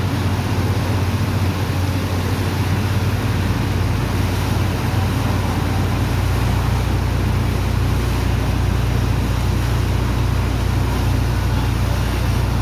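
Sand-dredging machine's engine and water pump running steadily: a low drone under a broad rushing noise. The drone grows stronger a few seconds in.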